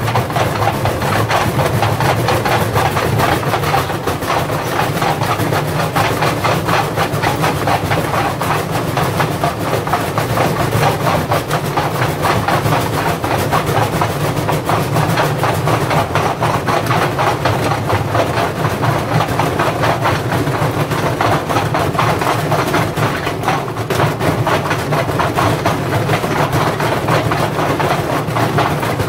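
Indesit washing machine running with heavy bricks in its drum: a steady hum under fast, continuous clattering and banging from the bricks.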